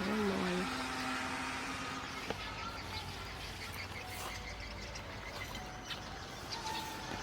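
Outdoor background: a steady low engine rumble with faint bird chirps and scattered small clicks. A brief low wavering sound comes right at the start, and a steady low hum stops about two seconds in.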